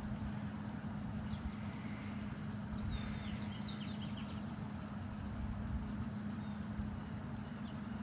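Outdoor ambience: a steady low hum of machinery or distant traffic under a few short, high bird chirps, a cluster of them about three seconds in.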